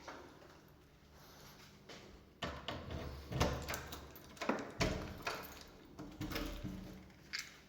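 A run of knocks and bumps, starting about two and a half seconds in.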